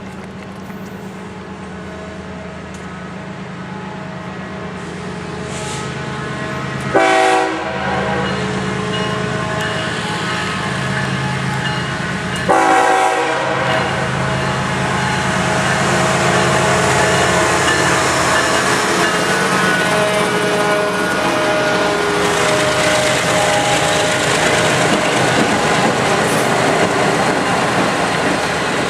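Diesel freight locomotives approaching and passing, growing steadily louder. Two short horn blasts sound about 7 and 12.5 seconds in, followed by the rumble and clatter of the train rolling by.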